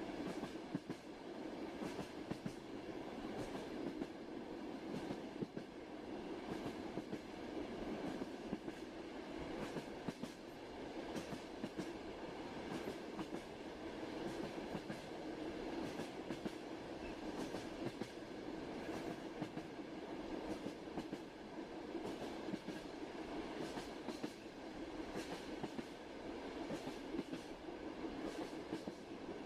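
Moving train running steadily: an even rumble of the wheels on the rails, with scattered irregular clicks and knocks of the wheels over the track.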